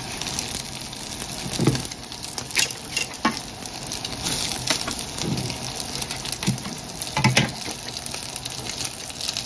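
Gyoza frying in oil in a non-stick pan, a steady sizzle with the heat just switched off. Now and then chopsticks and a slotted plastic spatula tap and scrape against the pan as the dumplings are turned.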